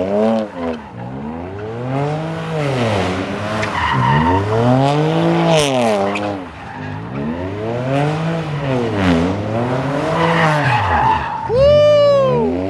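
Car engine revving up and down over and over, each rise and fall lasting a couple of seconds, over the hiss of spinning tyres, as a car does donuts. Near the end a brief high tyre squeal rises and falls.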